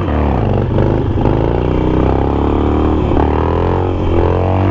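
2007 Harley-Davidson Nightster's air-cooled 1200 cc V-twin pulling under way, its pitch climbing and dropping back several times as it is run up through the gears.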